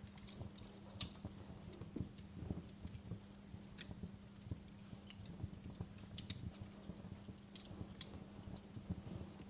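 Wood fire crackling in a fireplace: irregular sharp pops and snaps over a low rumble of burning, with a faint steady hum underneath.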